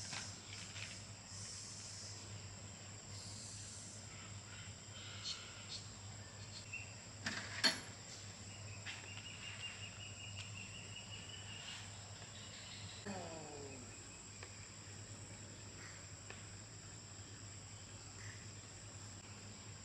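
Faint outdoor ambience with a steady high insect drone, like crickets, over a low hum. A few scattered clicks and knocks break it, the sharpest about halfway through.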